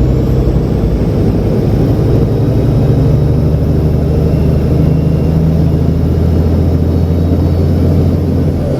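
Heavy truck's diesel engine running steadily under load while driving, a deep drone whose pitch shifts near the end.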